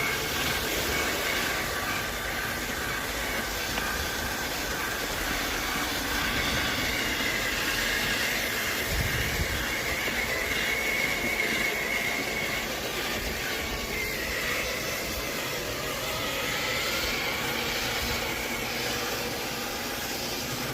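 Small RC truck's brushless electric motor and geared drivetrain running, a steady whine of several wavering high tones over a rushing hiss.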